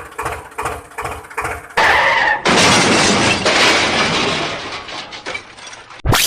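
Cartoon crash sound effect: light clattering, then a loud crash about two seconds in with glass breaking, the shattering noise fading away over the next few seconds.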